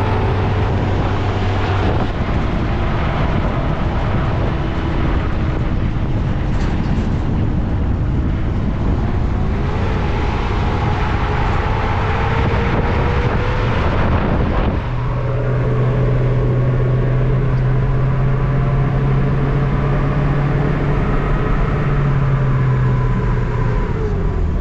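A motor vehicle driving, its engine and road noise steady and loud. The engine note changes about two seconds in and again about fifteen seconds in.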